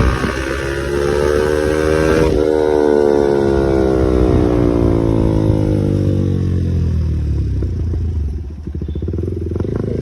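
KTM Duke 390's single-cylinder engine and exhaust under way: revs climbing, a sudden change in pitch about two seconds in, then engine note falling steadily for several seconds as the bike slows, settling to a low rumble near the end.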